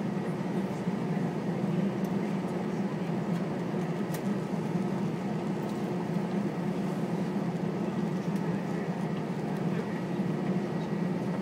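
Steady cabin hum inside an Airbus A320 on the ground before taxi, with a faint steady high tone above it.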